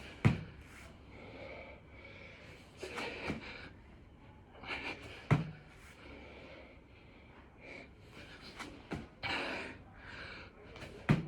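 Hard, gasping exercise breathing from a man doing six-count burpees, with three heavy thumps about five seconds apart as his body lands on the floor with each rep.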